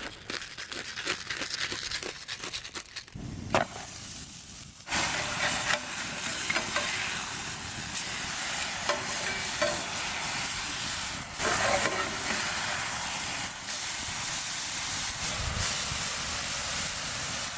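Food frying in a hot skillet over a campfire: scattered clicks at first, then from about five seconds in a steady sizzle, likely the buttered rye bread hitting the pan, with occasional knocks of the pan.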